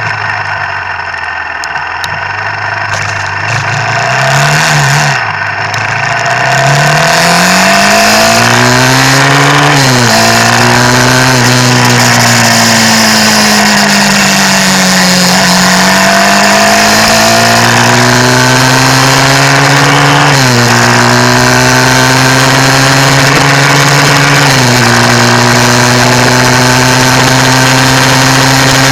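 Motorcycle engine on a wet ride, briefly blipped, then pulling away and revving up through the gears, with a sudden drop in pitch at each upshift, three times. A steady loud rush of wind and wet-road noise rises as it gets under way.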